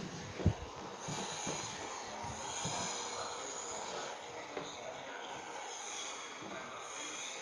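Railway station ambience: a steady hiss, with two low thumps in the first half second.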